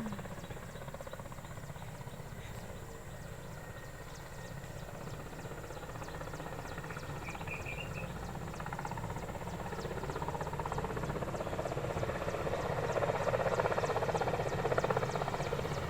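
Propeller aircraft engine droning overhead, steadily growing louder from about halfway through as the plane approaches.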